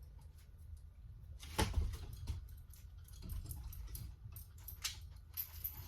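A dog moving about on a retrieve: scattered rustling and small clicks, with one louder knock about a second and a half in.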